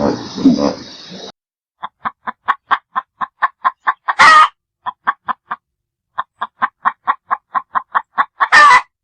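A hen cackling: runs of short, even clucks, about four or five a second, each ending in a loud, drawn-out squawk, twice. Before it, a low animal sound cuts off abruptly a little over a second in.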